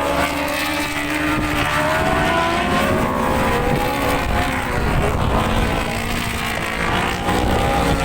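Several racing superbike engines at high revs as the pack goes by, their pitch rising and falling with throttle and gear changes, over a steady low rumble of wind on the microphone.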